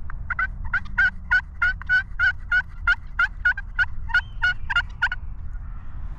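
Turkey calling: a steady series of about fifteen sharp, evenly spaced notes, roughly three a second, stopping about a second before the end.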